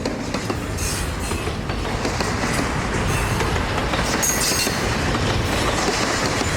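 Freight train rolling past on the rails: a steady heavy rumble of wheels and cars, with brief high-pitched squeals from the wheels a few times.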